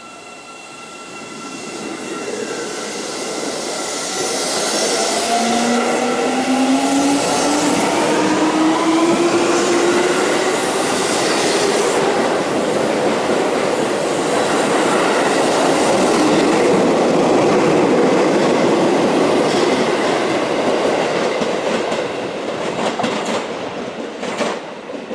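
Seibu 20000 series electric commuter train pulling away and accelerating past, its motors giving a whine that climbs in pitch. Wheel and rail noise grows loud as the cars go by, then fades near the end as the train draws away.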